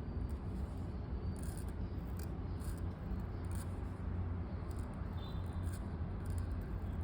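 Pen nib scratching on paper in irregular short strokes, over a steady low hum.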